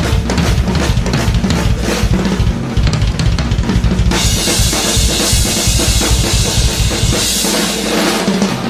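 Drum kit solo: rapid snare, tom and bass drum hits, giving way about four seconds in to a sustained cymbal wash while the drums keep going, with the low bass drum hits dropping out near the end.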